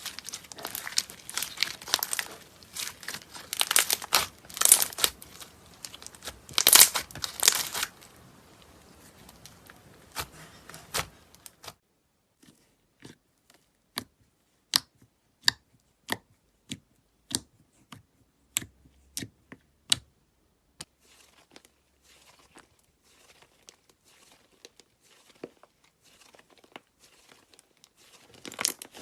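Crunchy slime being squeezed and worked by hand, crackling and popping. Dense crisp crackling for about the first eight seconds gives way to sparse single sharp pops, about one or two a second, then fainter crackle near the end.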